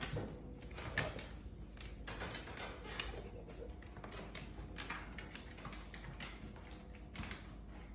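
Irregular light clicks and taps, several a second, from a dog's claws on a hard floor as it moves about searching.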